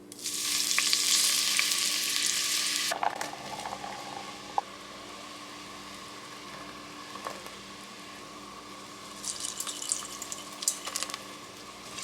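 Chicken broth poured into the hot, oiled pot of a pressure cooker: a loud burst of sizzling for about the first three seconds. It settles to a steadier, quieter sizzle, with a patch of crackling near the end.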